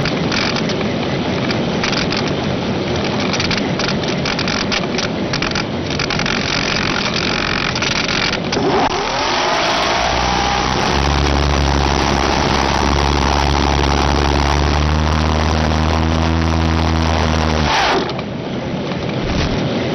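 Vehicle engine: a rising whine about nine seconds in, then a steady low drone that stops suddenly near the end, all over a rough noisy hiss with crackles.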